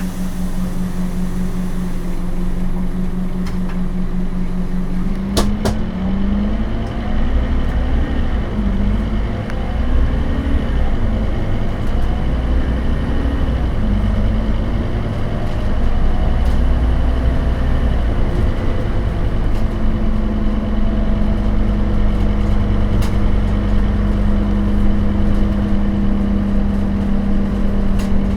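Scania K270UB bus with a five-cylinder DC9 turbodiesel and ZF Ecomat automatic gearbox running. A steady hum gives way after a sharp click about five seconds in to a deeper rumble, with the engine pitch repeatedly rising and dropping for about twelve seconds, then settles into a steady hum again near the end.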